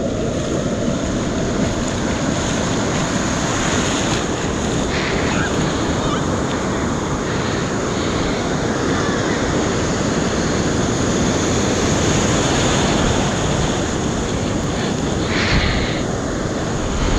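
Big, rough surf breaking and washing in as a steady, loud rush, with wind buffeting the microphone.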